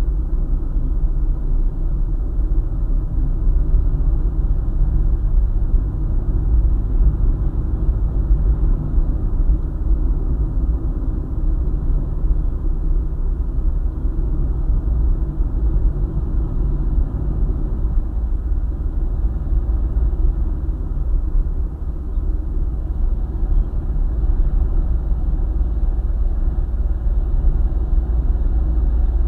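Steady low rumble of a car driving on a highway: tyre and engine noise, muffled, with little above the low range and no breaks.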